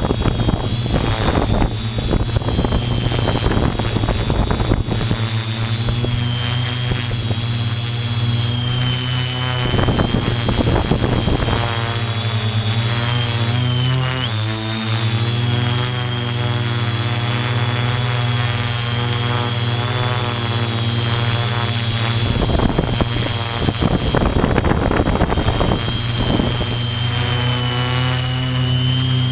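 Multirotor drone's electric motors and propellers running in flight: a steady hum with a thin high whine that wavers slightly as the motors correct. Gusts of high wind rush across the microphone several times.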